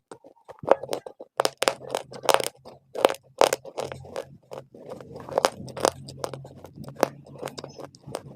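Baked clay being bitten and chewed close to the microphone: a quick, irregular run of sharp crunches, about two or three a second.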